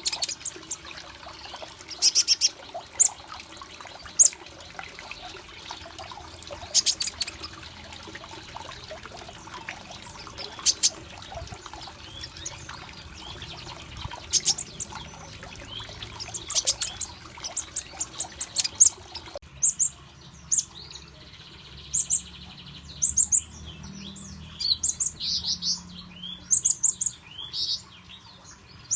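Kolibri ninja (konin) chirping: short, sharp, high chirps coming in irregular bursts. About two-thirds of the way through, the background changes abruptly.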